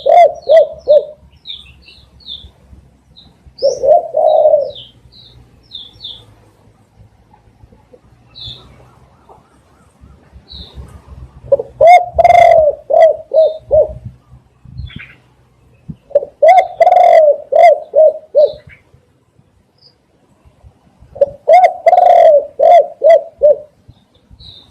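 Spotted dove cooing: a short phrase at the start and a single coo about four seconds in, then three long phrases of several coos each, a few seconds apart, in the second half. Faint high chirps of a small bird sound in the first few seconds.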